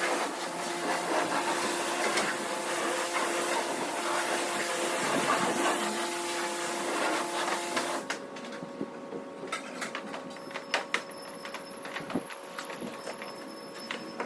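Self-service car wash pressure washer spraying, a dense hiss of water with a steady pump hum under it. It cuts off suddenly about eight seconds in. After that come scattered sharp clicks and a thin, high steady whine.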